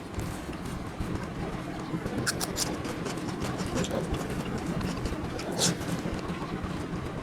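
Eating sounds: scattered light clicks and taps, with a sharper click about five and a half seconds in, over a steady background murmur and hum.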